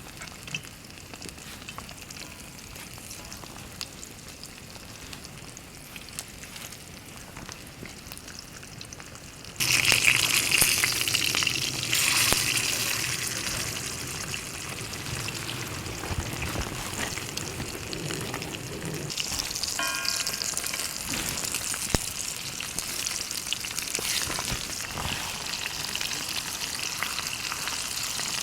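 Steak sizzling in a hot pan over a campfire, a low sizzle that jumps suddenly much louder about ten seconds in, as when meat is laid onto the hot surface, and then keeps frying steadily.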